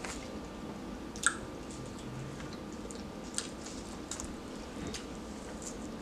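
Quiet chewing and wet mouth smacks of people eating shrimp by hand, with a few short, sharp clicks scattered through, the loudest about a second in.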